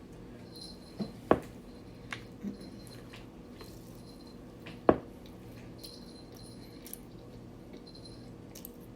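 Close-miked eating of a sub sandwich: quiet chewing with a few sharp wet mouth clicks, the loudest about a second in and again about five seconds in.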